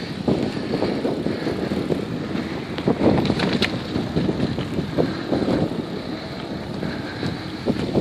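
Wind buffeting the microphone of a camera riding along on a moving bicycle: a steady rushing noise, with scattered knocks and clicks throughout.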